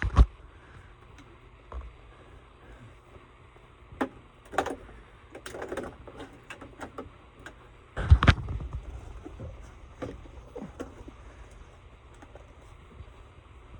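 Scattered clicks and knocks of things being handled, with the loudest thump about eight seconds in.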